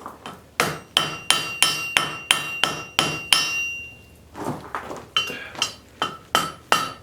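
Blacksmith's hammer striking hot steel on an anvil: a quick run of blows at about three a second, each followed by a bright ring. There is a pause of about a second, then another run of blows, lighter at first and then firmer.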